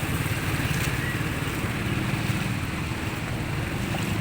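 A small engine running steadily with a fast low rumble, with wind on the microphone.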